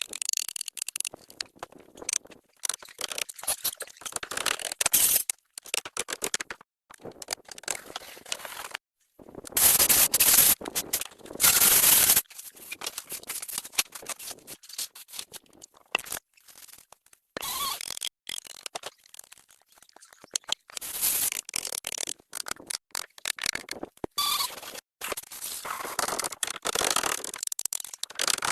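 Irregular scraping, rustling and knocking from hand work with wood and tools, with two longer, louder scrapes in the middle.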